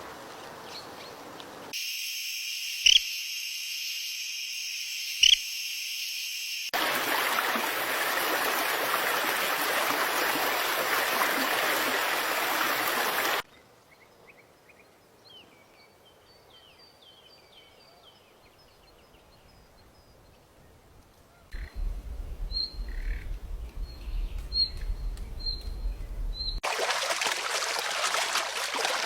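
Short outdoor recordings cut abruptly one into the next. First come two loud single bird chirps a couple of seconds apart, then several seconds of steady hissing noise. After a sudden drop to quiet, small birds chirp in quick high runs, and a steady hiss returns near the end.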